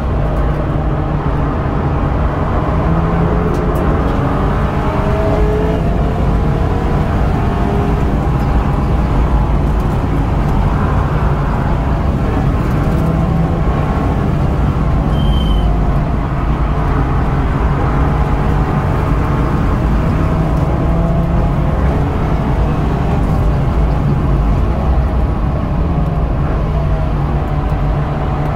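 BMW F30 328i's 2.0-litre turbocharged inline-four driven hard, its engine note rising and falling again and again over a heavy low rumble. A brief high-pitched chirp sounds a little past halfway.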